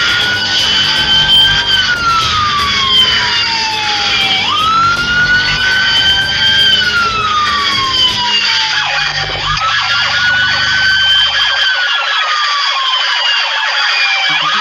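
Police car siren sounding a slow wail: the pitch jumps up, climbs a little, then glides slowly down, repeating about every five seconds. A low steady hum underneath drops out near the end.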